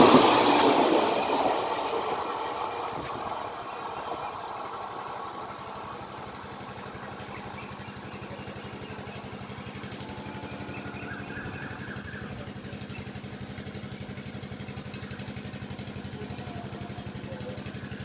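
The last coaches of a passing express train rolling by and fading away over the first few seconds. After that a steady low drone with a fast, even pulse goes on, like an idling engine.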